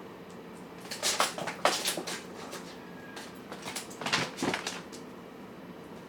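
Cats eating from their food dishes: a few short bursts of clattering and scraping of the bowls against the floor and each other.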